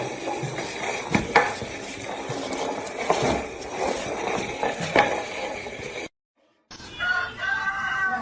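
Clattering with several sharp knocks over a steady noisy background. After a brief break, a dog starts a long, wavering howl near the end.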